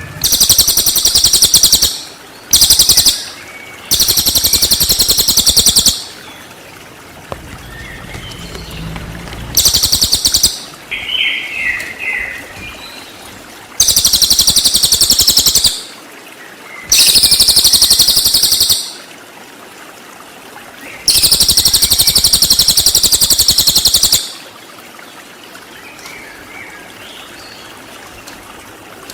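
Cililin bird song in a masteran recording: loud, very high-pitched bursts of rapidly repeated notes ('tembakan'), each burst lasting about one to three seconds, about seven times. Fainter bird notes sound between the bursts.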